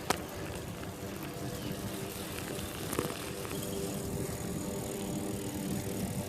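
Steady rushing noise of a bicycle being ridden, with faint music underneath and two sharp clicks, one just after the start and one about three seconds in.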